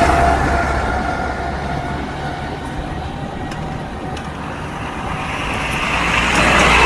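Tractors driving past one after another: one engine fades away over the first couple of seconds, and the next draws near and passes near the end.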